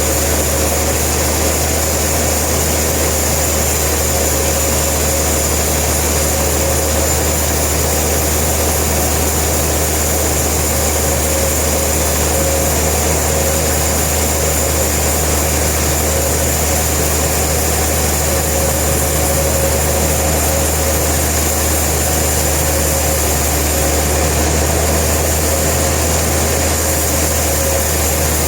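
Sawmill machinery running with a steady, unchanging drone: a deep hum with a constant high whine over it.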